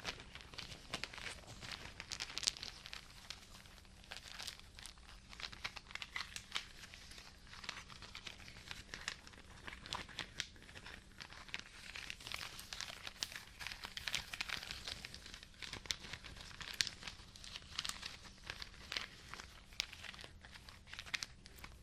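Crinkly material being crumpled and handled close to the microphone: a continuous run of small, sharp crackles with no pauses.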